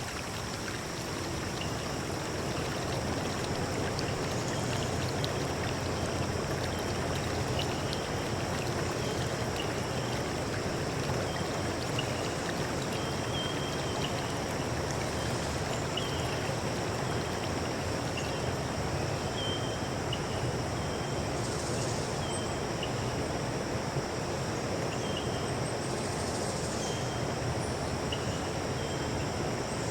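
Steady rush of a forest stream, with short, high bird chirps scattered over it, more often in the second half.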